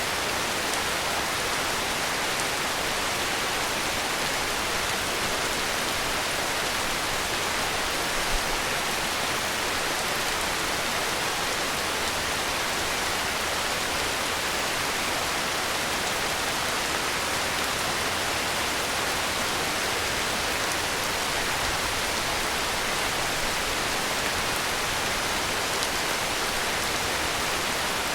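Heavy rain falling steadily: an even, dense hiss with no pauses and no thunder.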